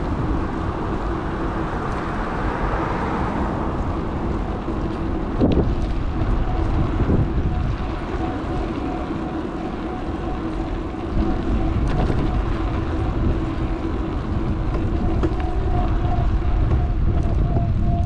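Wind buffeting an action camera's microphone on a moving electric bike, with rolling road noise and a steady whine. A higher tone joins about eight seconds in, and there is a sharp knock about five seconds in.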